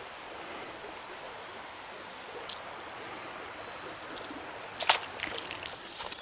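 Steady rush of a shallow creek's running water. A few sharp clicks or knocks come near the end.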